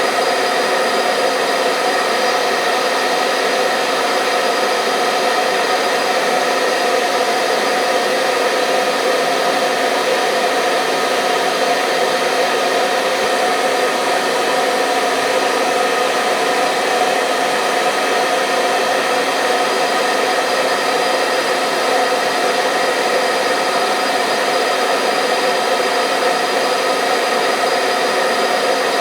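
Hair dryer running continuously at a steady speed: an even blowing rush with a constant motor whine running through it, unchanging.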